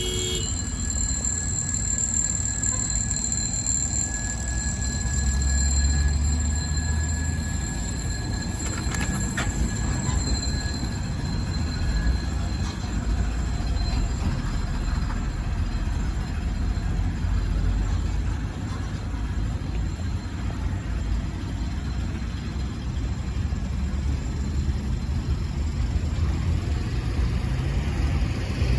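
A tram running on its rails with a steady low rumble. Thin, high, steady wheel squeal sounds over it, strongest early on and fading out about halfway through.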